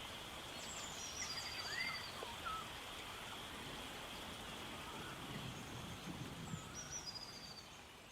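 Outdoor ambience of birds calling over a steady hiss: a high trilled call twice, a few short whistled chirps, fading out near the end.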